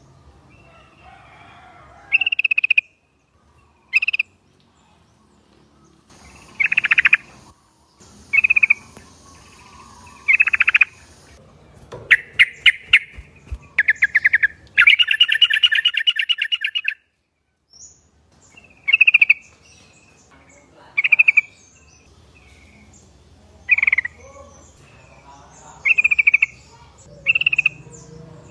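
Yellow-vented bulbuls (trucukan) calling in short bubbly phrases every second or two. About halfway through comes a run of fast, rapidly repeated chattering notes.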